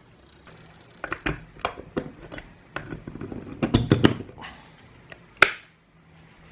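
A run of short clicks, taps and knocks, like small hard objects being handled, ending with one sharp click about five seconds in.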